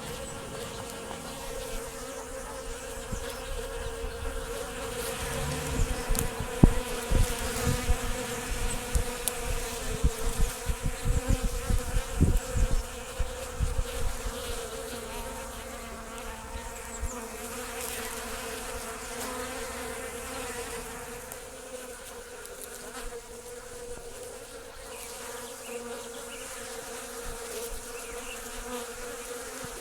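Honeybees buzzing steadily in a swarm of wingbeats as they forage at a bird feeder for seed dust. A run of low thumps sounds between about six and fourteen seconds in.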